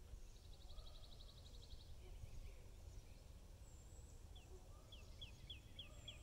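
Faint songbirds over a low rumble. Early on a fast, even trill lasts about a second and a half. In the last two seconds comes a run of short, falling whistled notes, about four a second.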